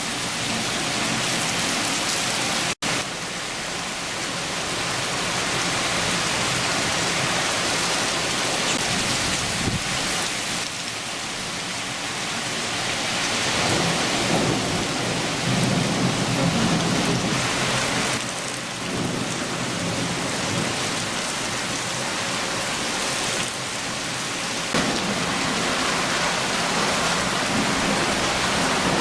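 Heavy shower rain falling steadily, with low thunder rumbling in slow swells, strongest about halfway through and near the end. The sound cuts out for an instant about three seconds in.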